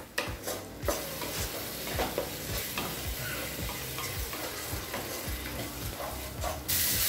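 Ground onion-tomato masala frying and sizzling in oil in a kadai while a spatula scrapes and stirs it in repeated strokes. The sizzle gets suddenly louder near the end.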